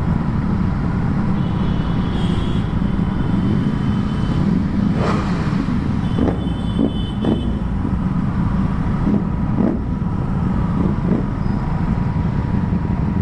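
Motorcycle engines running steadily, with several short throttle blips, each rise and fall in pitch, in the middle of the stretch.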